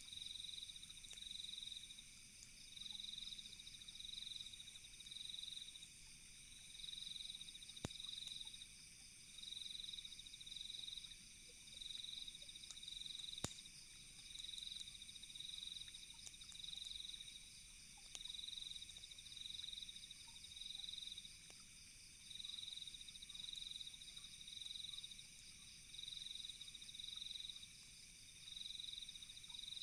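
A faint night chorus of crickets: pulsed chirping repeating about once a second over a steady high-pitched insect trill. Two sharp pops from a campfire stand out, about eight and thirteen seconds in.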